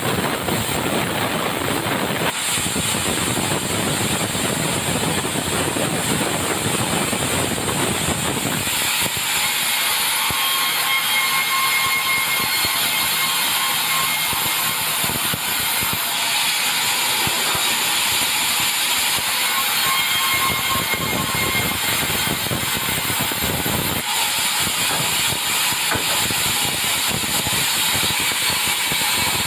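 Sawmill running and sawing timber, a loud steady mechanical noise. About nine seconds in, the deeper part of the sound drops away and a faint high whine comes and goes.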